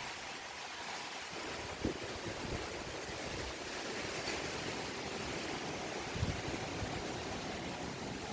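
Strong storm wind blowing ahead of rain: a steady rushing hiss, with a few low thumps of gusts buffeting the microphone.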